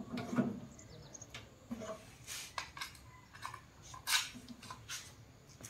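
Irregular light clicks and clatter of small hard objects being handled and set down, about a dozen in all, with the loudest knocks just after the start and about four seconds in.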